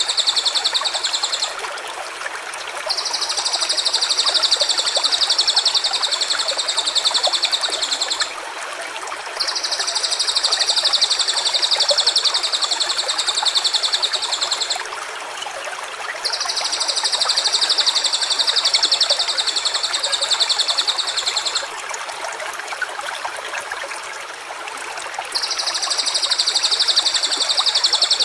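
A stream running steadily, under a long, high, rapidly pulsing trill that lasts about five seconds at a time. The trill comes back four or five times with short gaps between.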